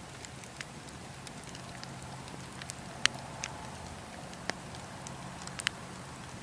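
Wood fire crackling: irregular sharp pops and snaps over a steady low rushing hiss, with the loudest pop about three seconds in.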